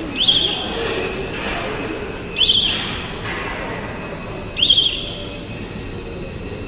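Factory ambience: a steady machinery din with a short high squeal that recurs about every two seconds, four times in all.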